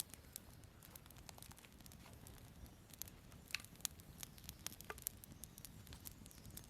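Small campfire of dry twigs burning, crackling faintly with irregular sharp pops.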